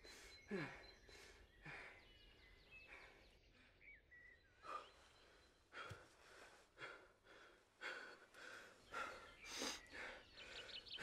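Faint, uneven breaths and sighs of a man, with cloth rustling, and a few faint bird chirps in the first couple of seconds.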